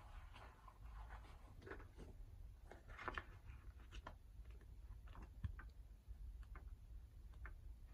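Near silence in a small room: low room hum with faint, scattered light ticks and taps.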